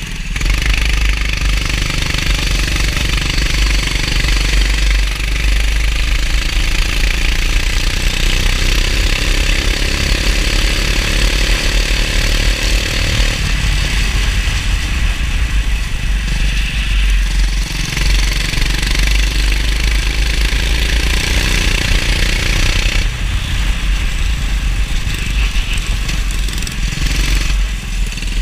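Go-kart engine running hard around a wet track, its pitch climbing for several seconds about five seconds in, falling away, then climbing again, over a heavy low rumble.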